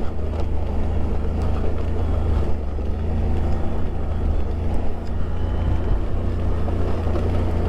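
Steady, unchanging drone of an engine, a vehicle under way at cruising speed.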